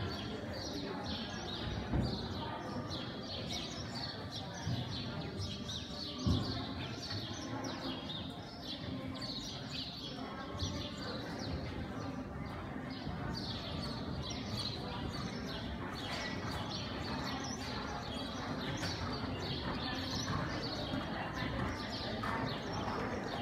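Small birds chirping over and over, with a couple of sharp knocks about two and six seconds in.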